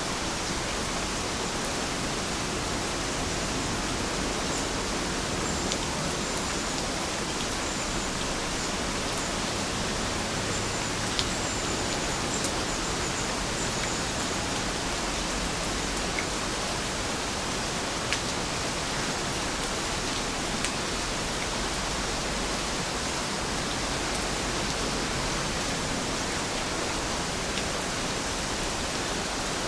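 Heavy rain falling in a steady, even hiss, with a few sharper drop ticks here and there.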